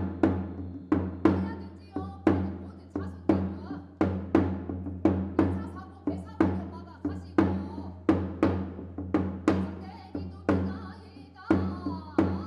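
Ritual percussion music: a drum struck in a quick, steady beat, about three strokes a second, each stroke dying away, over a steady low drone.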